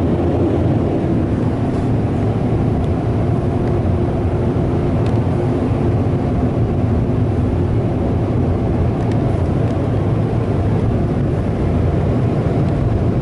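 Ryko SoftGloss Maxx 5 car wash air dryer blowing steadily on the vehicle, heard from inside the car.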